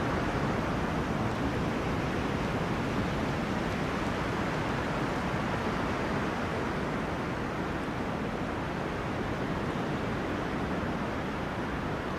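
Wind blowing through forest trees: a steady rushing noise without distinct gusts.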